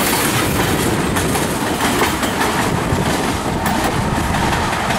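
Freight train of tank cars rolling past close by: a steady rumble of steel wheels with rapid clacking over the rail joints. A faint, thin steady wheel squeal comes in about halfway.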